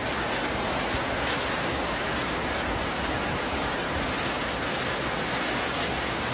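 Heavy wind-driven downpour: a steady, even rush of rain with no breaks or separate impacts.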